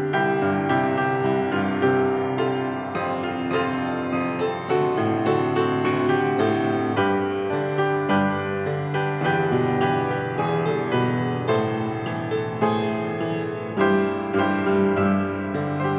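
Piano music, a slow prelude of held chords and melody notes.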